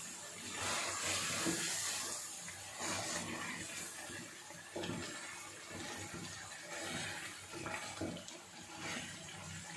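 Chicken sizzling and bubbling in oil and gravy in an aluminium karahi over a high gas flame, the liquid being cooked down. A wooden spatula stirs it, scraping and knocking against the pan now and then.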